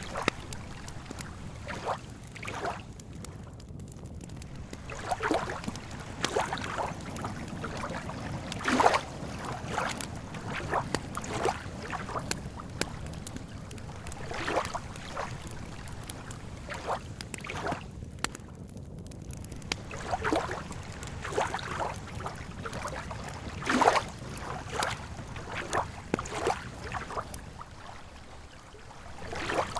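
Campfire crackling and lake water lapping at the shore: irregular pops and soft splashes every second or so over a steady low rush.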